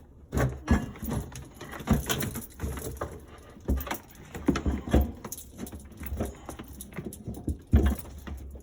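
Irregular knocks, clicks and light metallic rattles of garbage disposal parts being handled and fitted under a sink.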